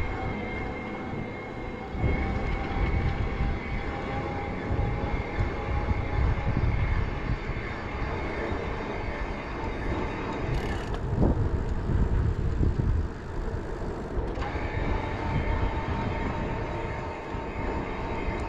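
Riding noise from a Bosch-powered Riese & Muller Roadster e-bike: gusty wind rumble on the microphone over rolling tyre noise, with a faint steady whine. About three-quarters of the way through, the whine steps up in pitch.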